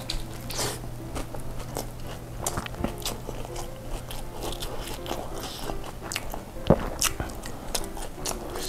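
Close-miked eating sounds: a bite into a Turkish kebab wrap, then wet chewing with many small crunchy clicks. One sharp knock about two-thirds of the way through is the loudest sound.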